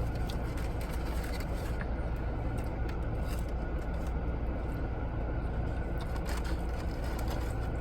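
Steady low rumble of a parked car idling, heard from inside the cabin, with a few faint clicks scattered through it.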